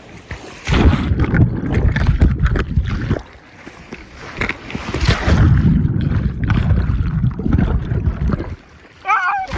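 Heavy wind buffeting the microphone in two long stretches, over sea surf and sloshing water. A short wavering high-pitched call comes near the end.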